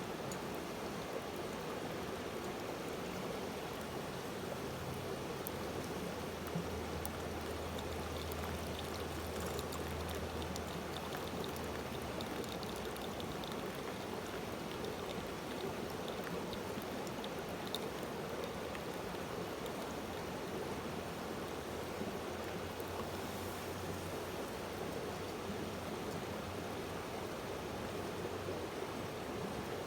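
Steady rushing noise, like running water, with a few faint clicks.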